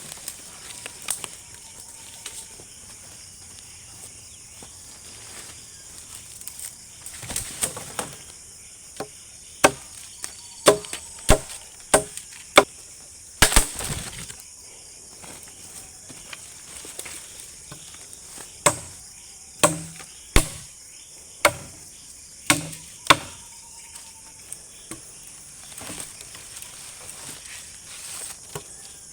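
Wood being chopped with a blade: two runs of sharp strikes, about five in the first and six more after a pause, over a steady high-pitched insect chorus.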